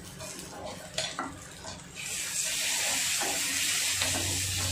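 Spice masala with chopped tomato and salt being stirred and fried in a hot pan: a spatula knocks and scrapes against the pan a couple of times, then from about two seconds in a loud steady sizzle comes up as the mixture fries.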